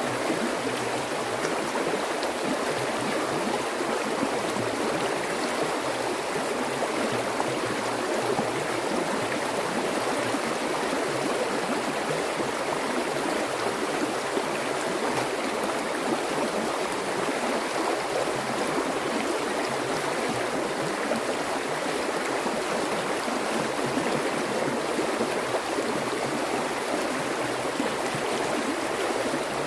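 Stream water flowing steadily, a continuous splashing and gurgling rush.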